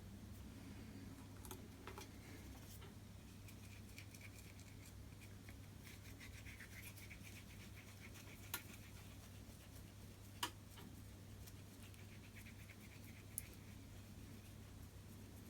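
Near silence: a steady low hum with faint scratching, and three small clicks spread through the second half.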